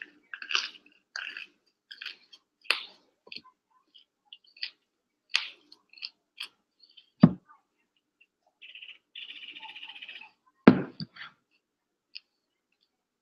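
A person chewing mouthfuls of raw broccoli, with irregular crisp crunches bite after bite. Two heavy thumps stand out, about seven seconds in and again near eleven seconds.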